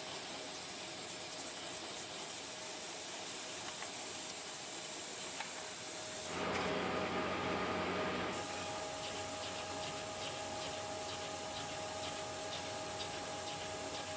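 CNC machine running while it cuts a yoyo: a steady hiss of cutting and coolant under a constant tone from the machine. About six seconds in it grows louder and fuller for about two seconds, then settles back with a slightly higher tone.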